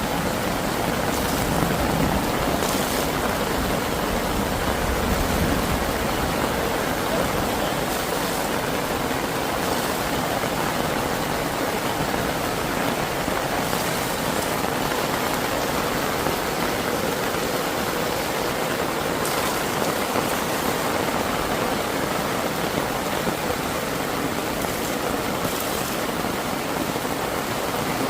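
Heavy rain pouring down steadily in a thunderstorm, a dense even hiss.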